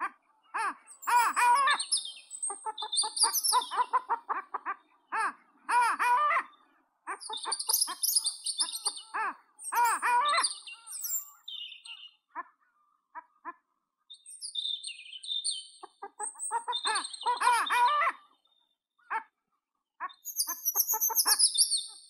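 Wild birds singing and calling: runs of quick repeated lower notes mixed with high, fast song phrases, broken by short pauses.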